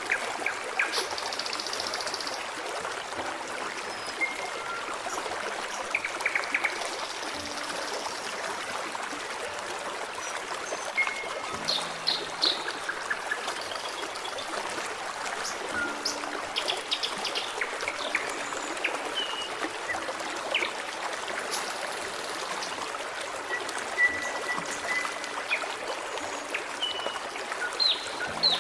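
Forest stream running and trickling steadily, with songbirds chirping, trilling and whistling now and then over it.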